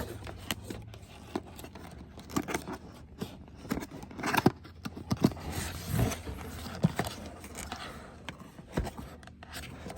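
Product packaging being handled and opened by hand: irregular scraping, rustling and sharp clicks, busiest in the middle.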